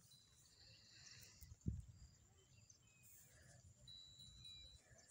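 Faint birdsong: short high chirps and whistles, one note held for about a second near the end. A brief low thump about a second and a half in.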